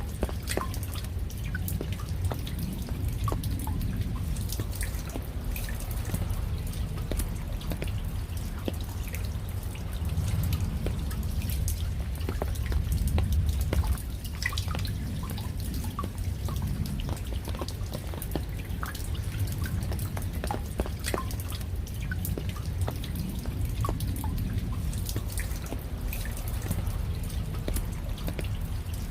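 Raindrops falling, heard as many scattered individual drips and taps over a steady low rumble.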